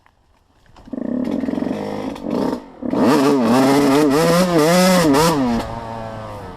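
Small off-road vehicle engine comes on about a second in, is revved up and down four or five times, then drops back to a lower, steady idle near the end.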